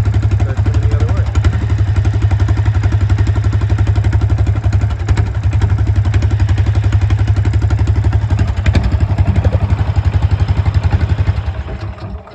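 Straight-piped Honda OHV engine running at idle with a loud, rapid, even exhaust beat, then shutting off near the end.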